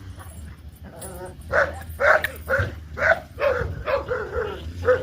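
Puppies yipping and whining: a run of about eight short, high yelps in quick succession starting about a second and a half in, over a steady low hum.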